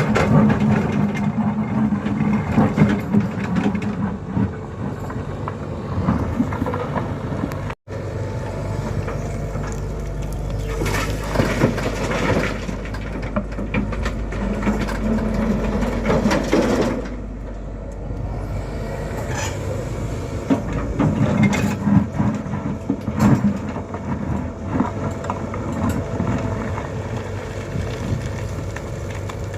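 Tata Hitachi/Poclain 120 hydraulic excavator's diesel engine running steadily while it works, swelling and easing as the machine digs and loads a truck, with rough crunching surges mixed in. The sound cuts out completely for an instant about 8 seconds in.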